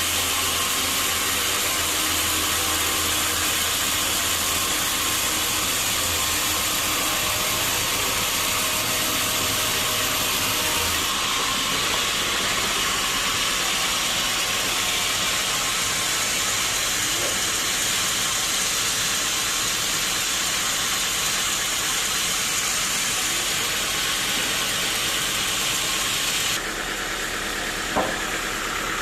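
Sawmill machinery running steadily, an even hissing noise with a low engine hum. The hum drops away about a third of the way in, and the sound shifts near the end, with a single short knock.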